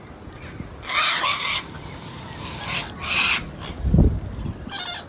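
Parrot squawking: three harsh, raspy squawks, about a second in, about three seconds in and near the end. A dull low thump, the loudest sound, comes about four seconds in.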